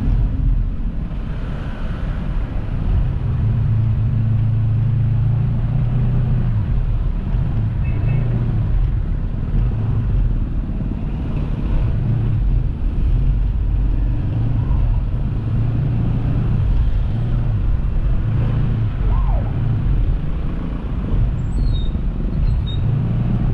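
A motor running steadily with a low drone that swells and eases every few seconds, over a constant rushing noise.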